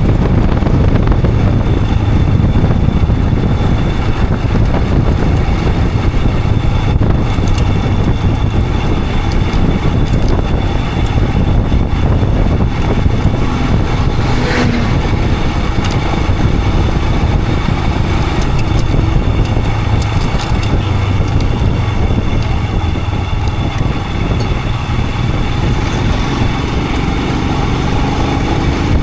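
Royal Enfield Himalayan 411's single-cylinder engine running steadily under way, heard from the rider's position over a constant rushing noise.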